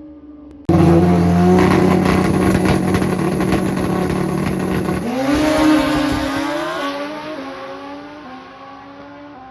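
Drag-racing motorcycle engine starting suddenly loud and held at a steady high rev with a rough crackle. About five seconds in it pulls away, its pitch climbing, then fades into the distance down the track.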